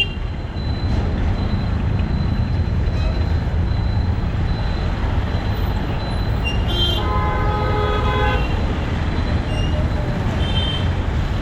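Traffic heard from a moving motorbike: a steady low rumble of engines and road noise, with vehicle horns honking. There are a couple of short toots, and past the middle one horn is held for about a second and a half.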